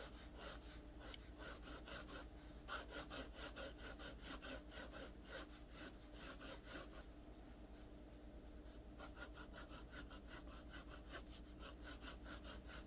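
Pencil shading on paper: faint, quick back-and-forth strokes, about three or four a second, pausing for a couple of seconds about halfway through before resuming.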